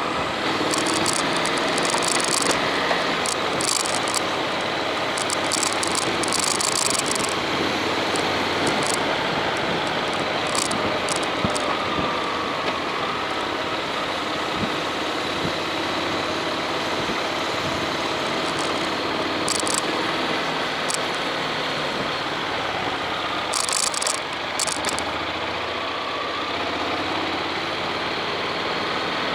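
Honda X-ADV motorcycle's parallel-twin engine running while riding, its note drifting gently up and down with speed, under steady wind and road noise. Brief clicks and rattles come and go, most around the first few seconds and again near the end.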